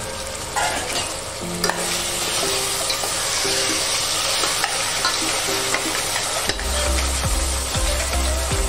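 Mutton pieces, shallots and masala frying and sizzling in an open pressure cooker, with a metal spoon stirring through them and now and then clicking and scraping against the pot.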